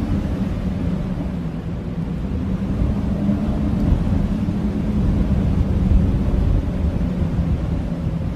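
Blizzard wind blowing steadily, a deep rushing noise with a low howl and no distinct gusts or breaks.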